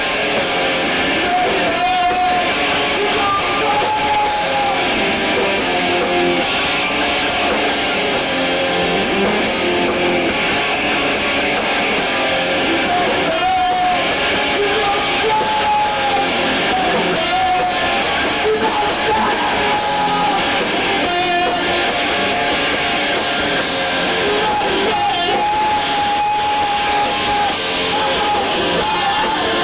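An emo band playing live: loud electric guitars with drums and cymbals, with held notes that bend in pitch.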